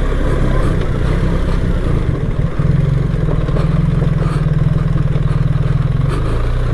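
BMW R 1300 GS boxer-twin motorcycle engine running as the bike is ridden along, settling into an even, steady pitch about two and a half seconds in.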